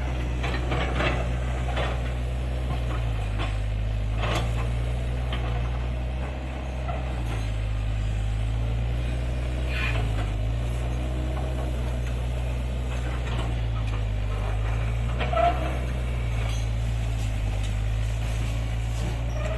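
Diesel engine of heavy earthmoving machinery running steadily with a low drone, with a few short knocks and clatters over it.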